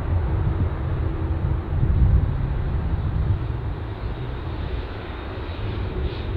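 Airliner engines rumbling as the plane passes: a deep, continuous rumble with a faint steady hum, easing slightly in the second half.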